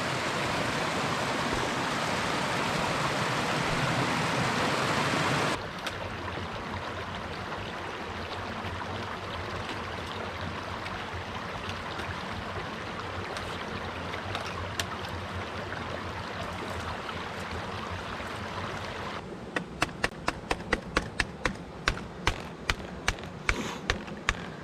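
River water rushing over rocks, loud at first, then abruptly quieter about five seconds in. Near the end comes a run of sharp, regular taps, about two or three a second, over the water.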